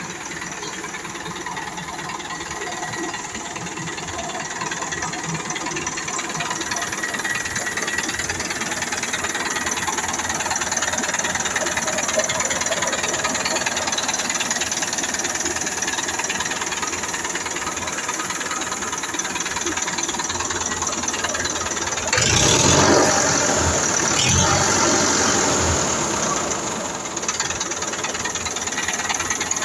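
Diesel engine of a Tafe 5900 DI Gajraj tractor running steadily with a knocking diesel clatter. It grows louder for a few seconds about two-thirds of the way through, then settles back.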